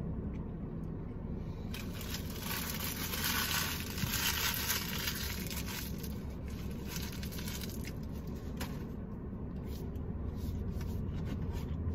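A person chewing a mouthful of food, with a crinkling, rustling hiss for a few seconds from about two seconds in, then scattered small clicks of mouth sounds near the end.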